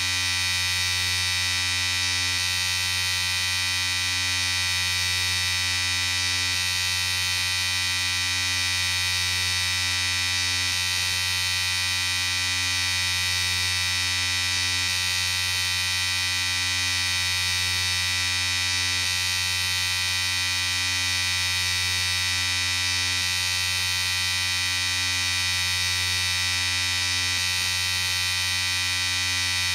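Electric shaver running continuously with a steady buzz that holds one pitch throughout.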